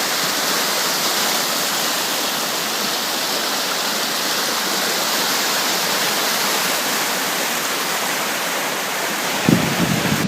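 A creek running high, a steady rush of water. Low buffeting thumps start near the end.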